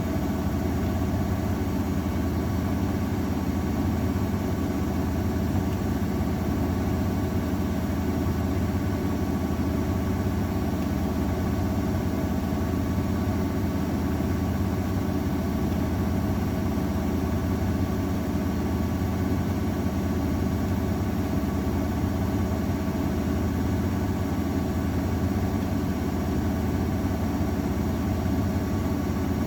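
AEG Öko_Lavamat 693 washing machine spinning at a steady high speed in its final spin: a loud, even motor hum and drum drone with no change in pitch.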